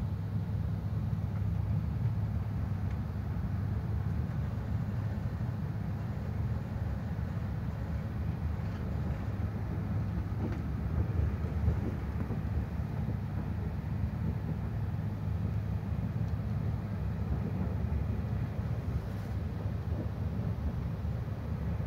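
Running noise of an AGC regional train heard from inside the passenger car: a steady low rumble with a low hum.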